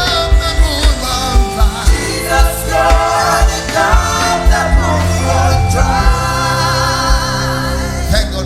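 Live gospel worship music: voices singing over a band, with steady bass notes and a drum beat about twice a second.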